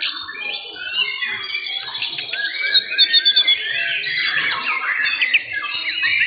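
Several young white-rumped shamas singing at once: a dense tangle of overlapping clear whistles, trills and quick rising and falling notes.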